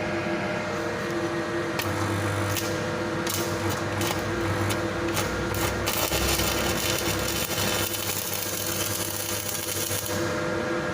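Weldcraft 500-amp three-phase welding machine humming steadily under test after servicing, with the welding arc crackling from about two seconds in and then hissing steadily from about six to ten seconds in.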